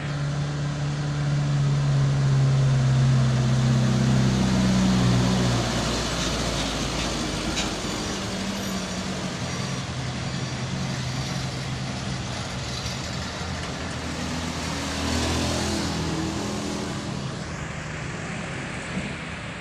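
Heavy truck diesel engine pulling up a steep climb, its note rising slightly and loudest for the first five seconds, then fading away. About fifteen seconds in, another vehicle passes with a brief rush of noise.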